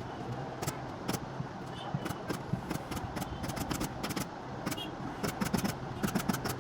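A run of sharp clicks or taps, irregular and several a second, some in quick clusters, over a steady low hum.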